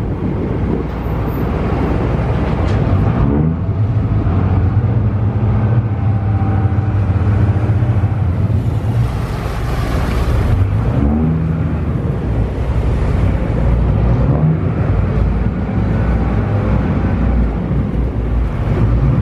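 Small passenger ferry's engine running with a steady low rumble, wind and water noise over it; the engine note rises briefly a few times.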